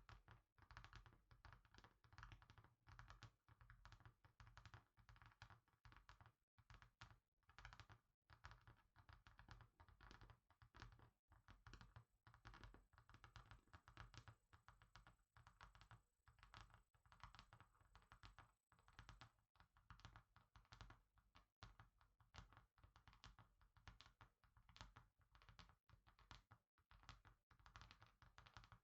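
Faint, fast, continuous tapping of fingers on a hard surface, many irregular taps a second.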